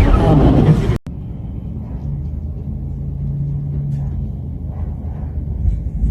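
Steady low rumble of a running vehicle, with a low steady hum rising out of it for about a second and a half in the middle. A louder sound before it cuts off abruptly about a second in.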